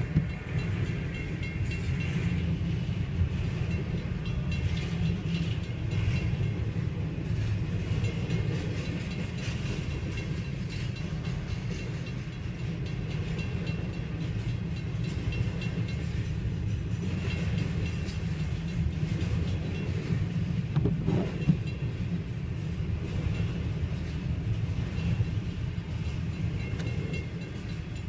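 Freight train of stacked container cars rolling steadily past, with the low rumble of the cars and the clack of wheels over the rail joints.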